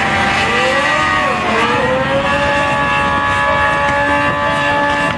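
Drag-racing motorcycle engine running at high revs. Its pitch dips and climbs again about a second and a half in, then holds high and steady.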